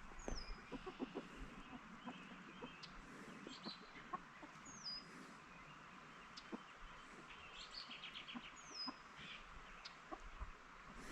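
Faint, soft clucking of backyard chickens, with a short, high, falling bird whistle three times.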